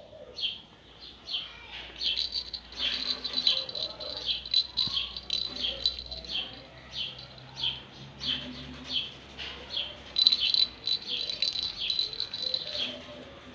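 A small bird chirping over and over, about two short high chirps a second. In two stretches, about three seconds in and again about ten seconds in, a steady high trill runs under the chirps.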